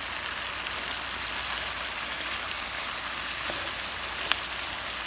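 Onions, peppers, garlic and sausage with tomatoes sizzling steadily in oil in a paella pan, with one sharp click about four seconds in.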